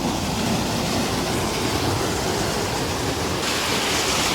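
Waterfall rushing steadily, an even roar of falling water; the hiss gets stronger about three seconds in.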